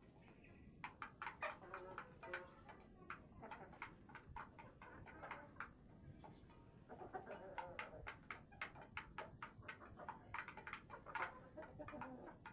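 Layer hens clucking softly over an irregular patter of many light taps, typical of beaks pecking at feed.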